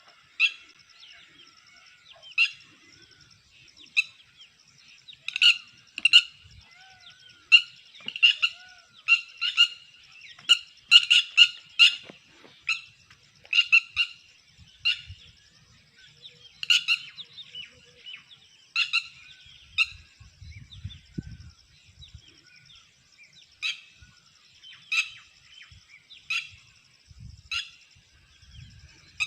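Red-wattled lapwings giving loud, sharp, repeated alarm calls at an uneven pace, thickest in the first half. This is the alarm of a pair guarding their ground nest against someone coming near.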